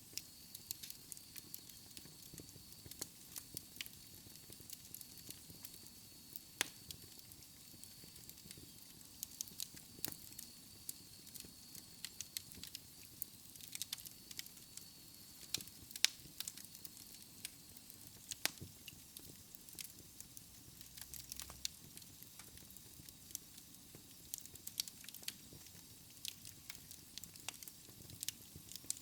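Wood fire crackling in a fireplace: frequent sharp pops and snaps of burning logs over a soft hiss.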